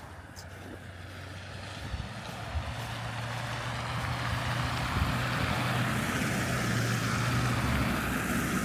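A road vehicle's engine and tyres on a snowy street, growing steadily louder as it approaches, with a low engine hum under a tyre hiss.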